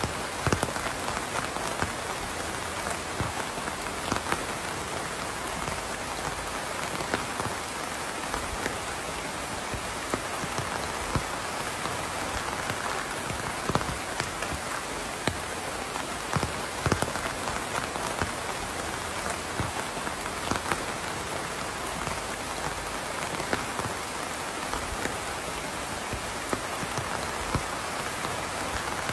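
Steady rain falling on a surface, a constant hiss with many separate drops pattering and ticking sharply all through it.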